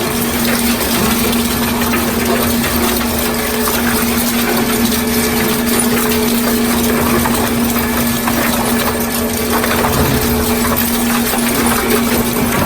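Four-shaft shredder running under load, shredding washing machines: a steady motor hum under continuous grinding and scattered irregular cracks and knocks as the shafts tear the material.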